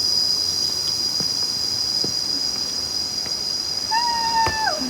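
Insects, crickets or the like, chirring in a continuous high-pitched drone. Near the end a short high call is held for about half a second and then drops in pitch.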